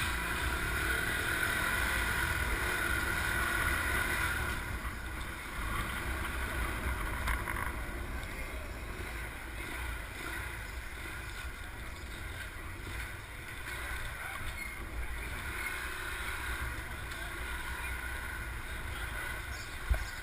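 Steady low rumble of a moving vehicle with wind buffeting the microphone; the higher part of the noise drops back about four and a half seconds in.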